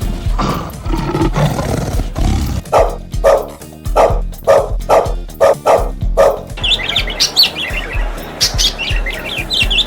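Animal calls over background music: a run of evenly spaced calls in the middle, then birds chirping rapidly from about two-thirds of the way in.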